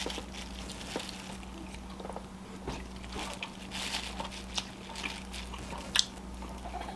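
A person chewing food close to the microphone: scattered small mouth clicks and smacks, with one sharper click about six seconds in, over a faint steady hum.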